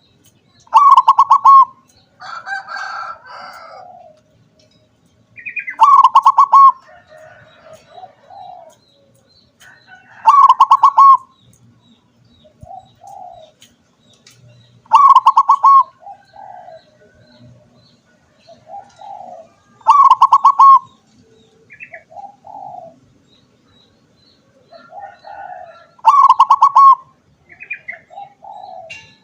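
Zebra dove (perkutut) singing: six loud, rapidly pulsed cooing phrases about a second long, repeated roughly every five seconds, with softer coos in between.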